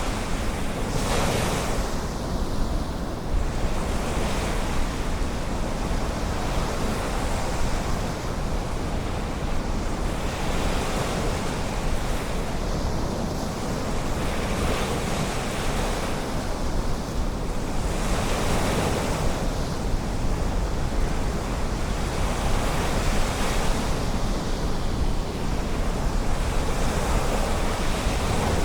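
Ocean surf breaking and washing up on a sandy beach, rising in a new surge every few seconds, with a steady low rumble of wind on the microphone.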